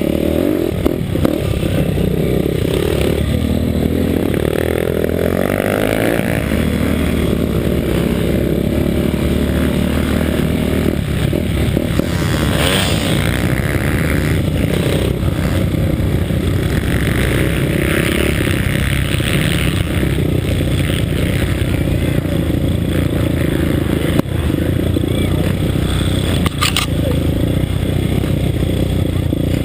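Daytona Anima 190 cc single-cylinder four-stroke pitbike engine running hard, its pitch rising and falling as it revs up and backs off. A single sharp knock comes near the end.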